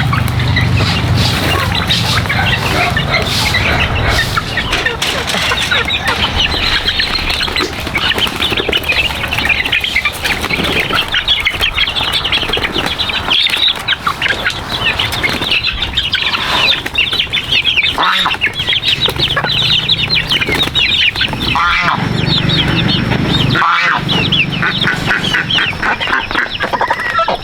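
A flock of chickens clucking and peeping, with many short calls overlapping continuously.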